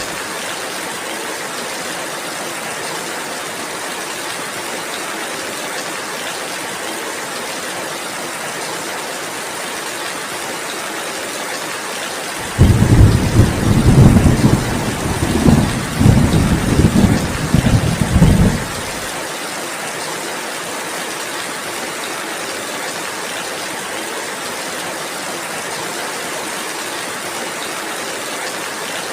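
Steady, even rainfall. About halfway through a loud, low rumble of thunder starts abruptly and rolls for about six seconds before dying away, the rain hiss carrying on underneath.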